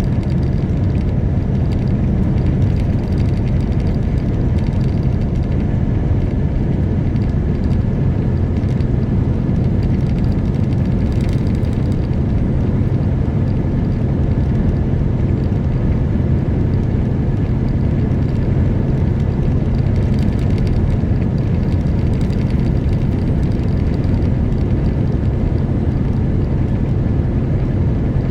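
Semi truck's diesel engine and road noise while driving, a steady low rumble.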